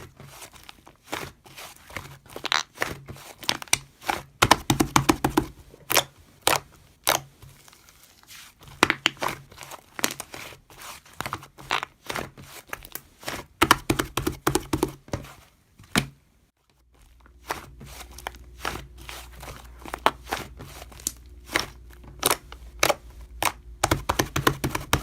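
Crinkling, tearing and tapping of a crinkly material being handled up close, a dense run of sharp crackles and clicks. It breaks off briefly about two-thirds of the way in, and after that a steady low hum runs beneath the crackling.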